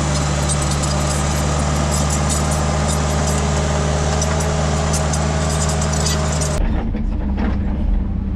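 Diesel engine of heavy earthmoving equipment running steadily, with a constant low hum and a clattery hiss above it. About six and a half seconds in, the hiss drops out abruptly and the engine carries on, sounding duller.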